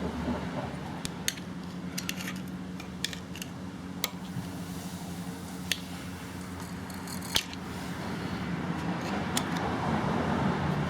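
Scattered sharp metal clicks and taps of hand tools working a tab on the pit bike's clutch, bending it in to lock the nut, over a steady low hum. A broad rushing noise builds near the end.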